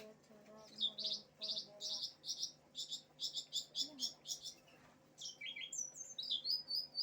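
A cingcoang (shortwing) singing energetically in a fast series of sharp, high notes, about four a second. Then it breaks into a tumbling run of falling notes that ends in a held high whistle.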